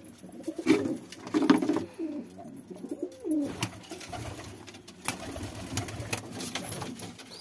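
Domestic pigeons cooing in low, throaty bursts, with several sharp taps in between. The loudest coos come in the first two seconds.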